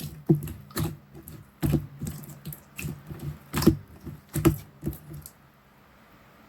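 Clear slime being squished and pressed by hand, giving irregular wet clicks and pops that stop a little after five seconds in.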